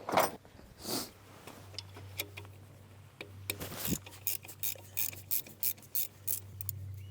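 A spanner working on a bolt: irregular metal clicks, knocks and scrapes, coming faster in the second half, over a steady low hum.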